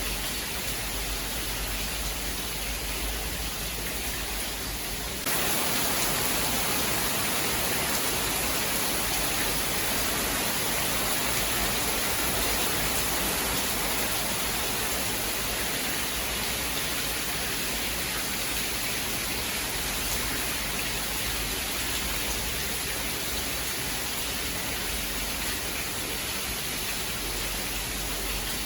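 Steady heavy rain, an even hiss. About five seconds in it turns abruptly louder and brighter, then eases off slowly.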